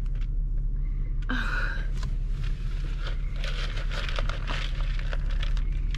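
A car engine running at idle, heard from inside the cabin as a steady low hum, with scattered rustling and light clicks over it.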